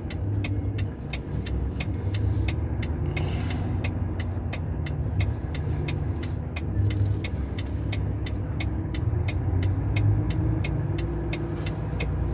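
Heavy truck's diesel engine running low and steady while the truck reverses slowly. Over it comes a regular, rapid ticking at about three ticks a second.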